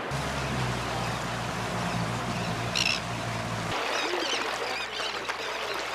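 A low steady motor hum with one bird call near the middle; about two-thirds of the way through the hum stops abruptly and many seabirds call at once from a nesting colony of gulls and terns.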